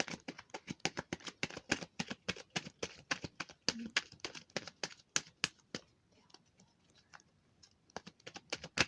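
Tarot cards being shuffled and drawn from the deck: a quick run of card clicks and flicks for about six seconds, then only a few faint ones, with a louder flurry near the end.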